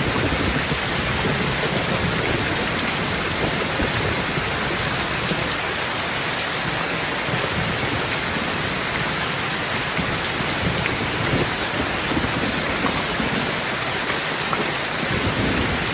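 Steady heavy rain with the patter of many drops, over a low, uneven rumble of thunder.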